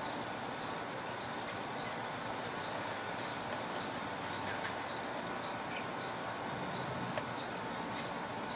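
A bird giving a short, high chip over and over at an even pace, somewhat under two a second, with a few softer chirps in between, over a steady background hum.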